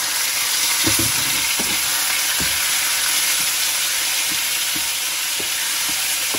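Raw chicken pieces sizzling in a hot frying pan, stirred with a wooden spatula that knocks against the pan a few times in the first couple of seconds. The chicken is being fried until it is no longer pink.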